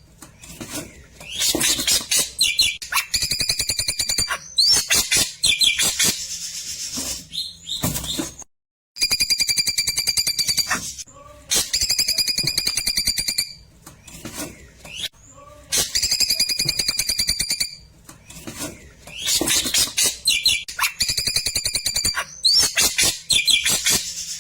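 Klewer bird singing in repeated bouts of rapid trills and fast chattering notes, with short pauses between phrases. About eight and a half seconds in there is a brief dead-silent break where the looped recording starts over.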